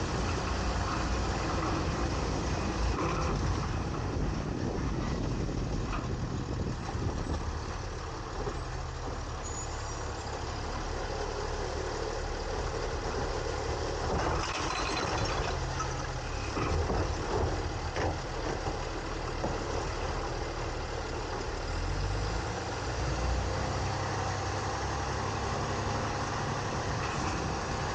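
2022 Autocar ACX garbage truck with a New Way Sidewinder automated side-loader body running, heard from inside the hopper: steady engine rumble and mechanical noise, with a few knocks and clatter around the middle.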